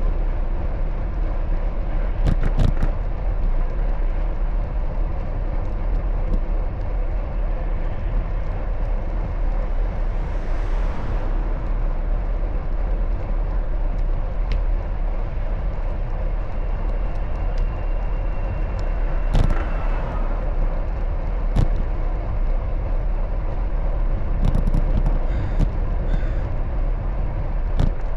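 Street noise heard from a moving bicycle: steady wind rumble on the microphone and passing road traffic. A vehicle swells past about ten seconds in, and a few sharp clicks and knocks come through.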